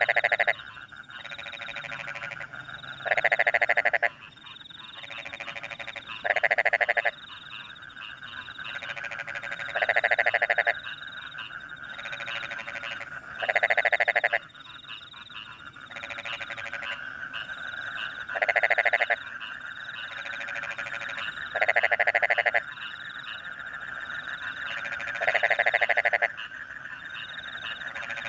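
Rice-paddy frog giving a loud croaking call about every three to four seconds, each call lasting under a second. Behind it runs a steady chorus of crickets and more distant frogs.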